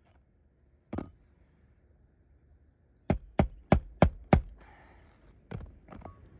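Hammer driving a roofing nail through a roof snake nail-holder into a shingle: one strike, then five quick, loud strikes about three a second, then two lighter blows near the end.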